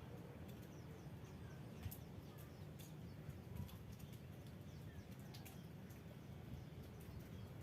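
Faint rural ambience: a steady low rumble with scattered, faint high bird chirps and a few light clicks.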